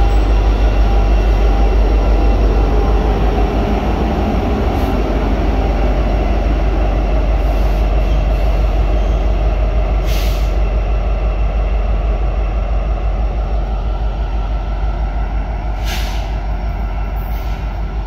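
Norfolk Southern diesel locomotive at the rear of a freight train rumbling past with its wheels running on the rails, a steady low engine drone that slowly fades as it pulls away. There are two brief sharp high sounds, about ten and sixteen seconds in.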